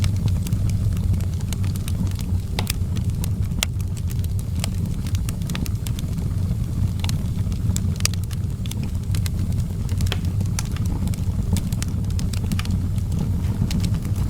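Outdoor wood fire crackling, with frequent irregular sharp pops and snaps over a steady low rumble.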